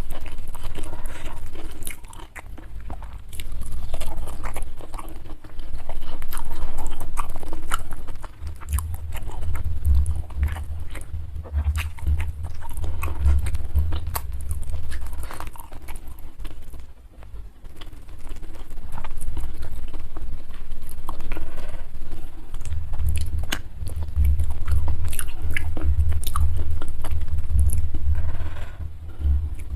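Close-miked chewing and biting of a rice-and-fried-fish meal, with crunchy bites and many small wet mouth clicks, and heavy low thuds of chewing through two long stretches.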